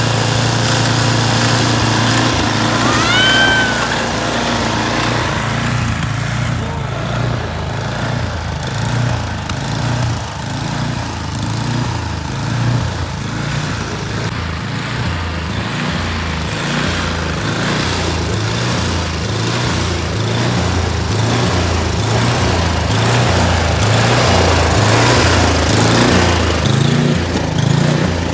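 Snowblower engine running steadily under load, its low hum wavering as it works through the snow, over a continuous hiss. A brief high chirp about three seconds in.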